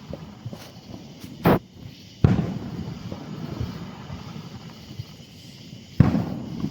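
Aerial fireworks shells bursting: a sharp bang about a second and a half in, a louder boom just after two seconds that rumbles away, and another boom near the end, with smaller pops between.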